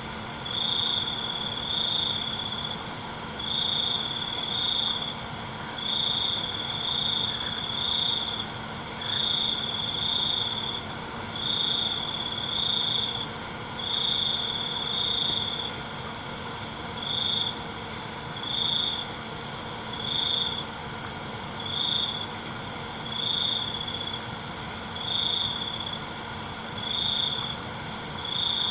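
Night insect chorus: a nearby cricket sings loud trilled phrases, each about a second long, repeating every second or two, over a steady high-pitched chorus of many other crickets and insects.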